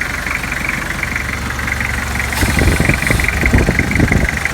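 Toyota Hilux engine idling with its power steering being turned, a steady high-pitched hum over it and, from about two and a half seconds in, a run of irregular low thumps. The power-steering noise is gone after the pulley and belt were refitted.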